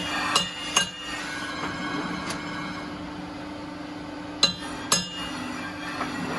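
Metal struck against metal: two pairs of sharp, ringing clanks, one pair near the start and another past the middle, over a steady low machine hum.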